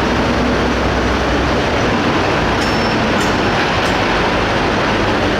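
A super stock pulling tractor's turbocharged diesel engine running at high revs, loud and steady.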